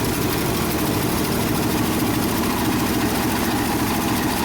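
1976 Ford F-600 dump truck engine idling steadily with a vacuum leak, which the crew takes for a big leak at the carburettor.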